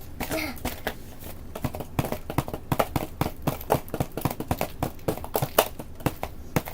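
Digging tools scratching and chipping at chalky dig blocks: quick, irregular scrapes and small taps, several a second.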